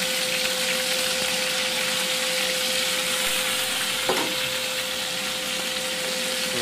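Sea scallops searing in very hot olive oil and melted butter in a pan, a steady sizzle.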